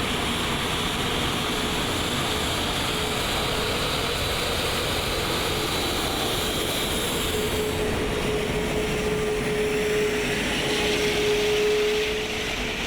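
Airbus A380 jet engines running steadily at taxi power: a continuous rushing noise with a steady whine that grows stronger in the second half, then eases slightly just before the end.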